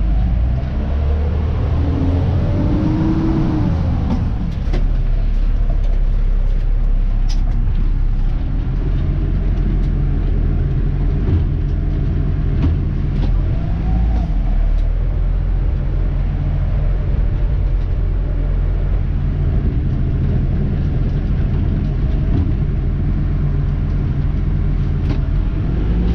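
Dennis Elite 2 garbage truck's diesel engine running steadily under way, heard from inside the cab, with a low, even hum. A few brief pitch glides come in the first few seconds.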